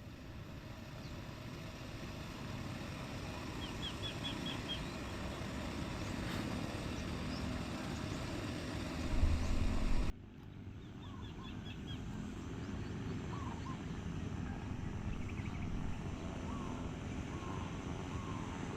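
Outdoor ambience: a steady low rumble with birds chirping in short quick runs of four or five notes. The rumble swells louder about nine seconds in and then cuts off suddenly at an edit.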